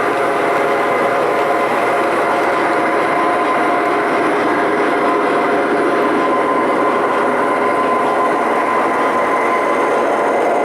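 O scale model train running along the layout track: a steady rolling rumble with a constant hum of steady tones.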